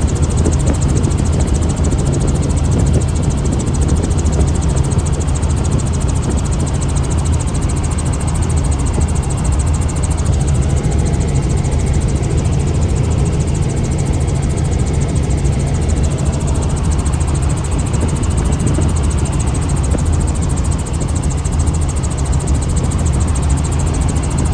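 Helicopter in flight, heard from inside the cabin: steady engine and rotor noise with a strong low hum that does not change.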